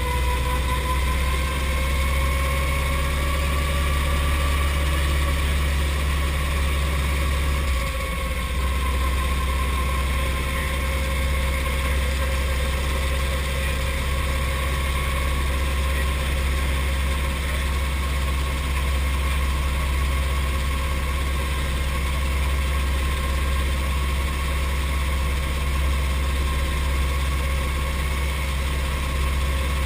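Brantly B2B helicopter's four-cylinder Lycoming piston engine and rotor drivetrain running at idle during start-up and warm-up. Its whine rises in pitch over the first few seconds, then holds steady over a constant low drone.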